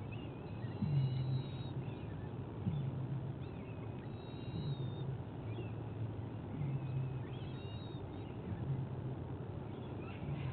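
Birdsong from the nest surroundings: faint high chirps and whistles over a low call that repeats about every two seconds.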